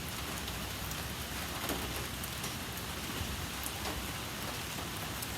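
Steady rain falling, with faint scattered ticks of individual drops.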